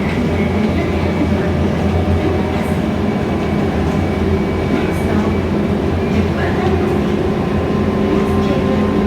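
Ride noise of a Scania K320iA CNG city bus under way: a steady drone from the engine and running gear, with a few faint clicks and rattles.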